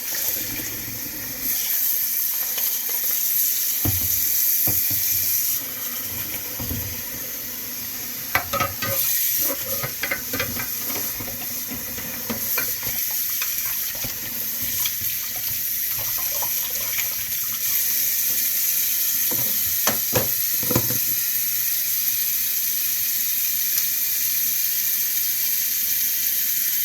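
Kitchen tap running in a steady stream into the sink, with a few knocks and clatters of things being handled.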